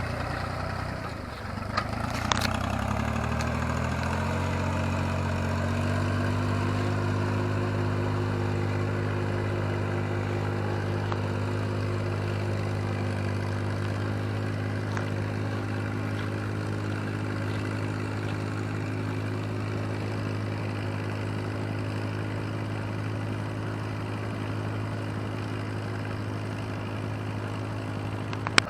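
Yanmar YM3000 tractor's diesel engine running; its speed climbs over the first few seconds, then holds steady. Two sharp clicks sound about two seconds in.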